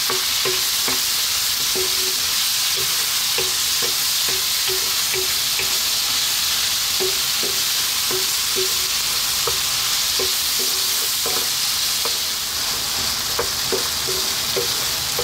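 Lamb, onion and tomato frying in oil in a nonstick wok with a steady sizzle. A wooden spatula stirs them, scraping and tapping against the pan about twice a second. The chopped tomatoes have just gone in to cook down.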